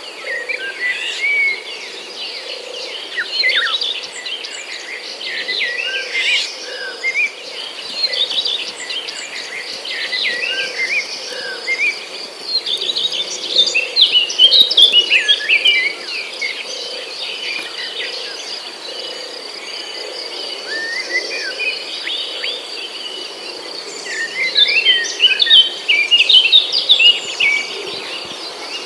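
Many birds chirping and singing over a steady, high insect trill. The birdsong comes in clusters of quick chirps, loudest about halfway through and again near the end.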